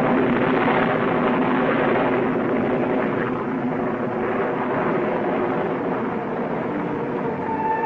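Airplane engines droning steadily, an even, unchanging hum that eases off slightly near the end.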